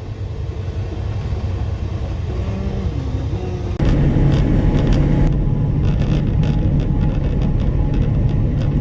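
Low, steady rumble of a loaded coal train rolling past. About four seconds in, the sound jumps abruptly to a louder, steady drone with scattered clicks and rattles.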